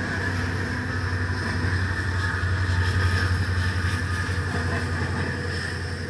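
Train passing a trackside webcam: a steady low rumble that swells to its loudest about halfway through and then eases off.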